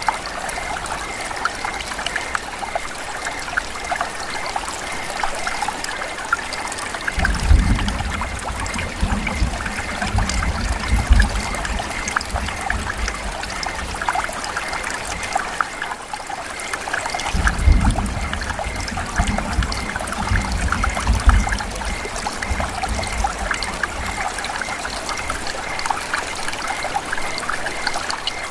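Steady rain falling, a dense hiss full of small drop impacts and trickling water. Twice, about seven and seventeen seconds in, a low rumble rises under it for several seconds.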